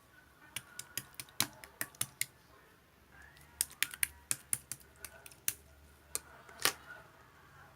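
Irregular sharp clicks in two runs: a first run from about half a second in, a pause, then a second run from about three and a half seconds in.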